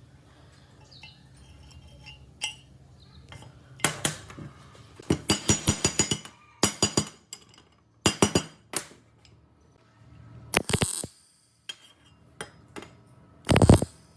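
Metal clinking and tapping in irregular bursts, as of metal parts or tools being knocked together, with a quick run of taps about five seconds in and a heavier knock near the end.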